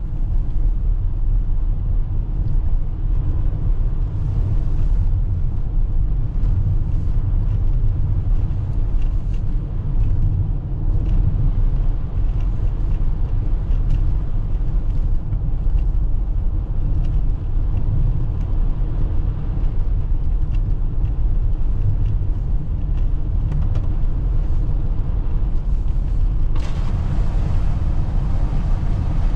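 Steady low road and tyre rumble of a Toyota RAV4 hybrid driving on snow-covered roads, heard from inside the cabin. Near the end a steady hiss suddenly joins in.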